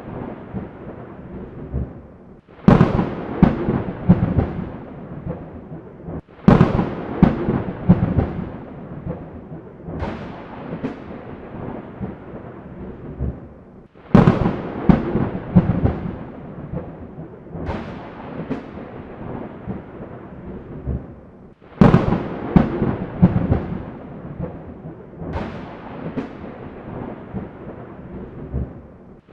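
Thunder: a sharp crack that rolls off into a long low rumble, repeated about seven times at roughly four-second intervals, some claps cutting in abruptly.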